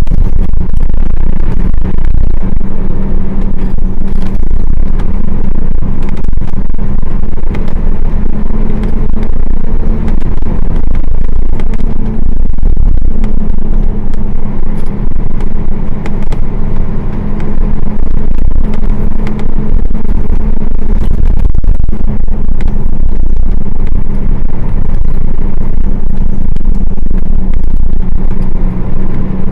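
Nissan Diesel KL-UA452KAN city bus under way, its PF6 diesel engine droning steadily with road rumble and occasional short clicks and rattles.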